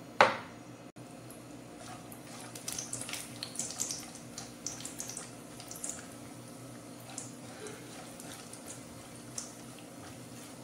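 Cashews frying in ghee in a nonstick kadhai: a light sizzle with small crackles, busiest in the middle, while a silicone spatula stirs them. A sharp knock on the pan just after the start.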